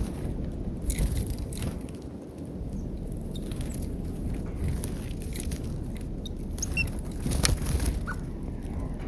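Birds pecking at peanuts in a feeder: irregular sharp taps and clicks, with a few short high chirps about two-thirds of the way through, over a low steady rumble.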